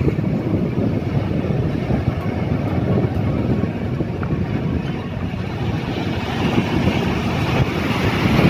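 Wind rumbling steadily on the microphone, with the wash of ocean surf beneath, a little louder near the end.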